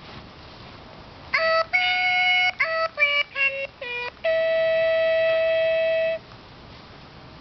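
Dog whining: a run of short, high-pitched whines starting about a second in, then one long steady whine of about two seconds, begging for something it wants.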